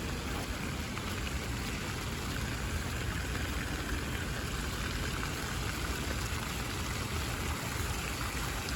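Steady rush and splash of water from a running outdoor water fountain, mixed with falling rain.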